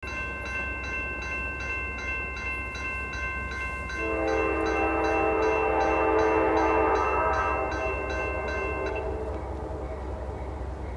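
A railroad crossing bell rings about three times a second while a locomotive's air horn sounds a chord. The horn starts about four seconds in, is loudest around six seconds and fades out near nine seconds, as the bell stops. A steady low rumble from the passing train runs underneath.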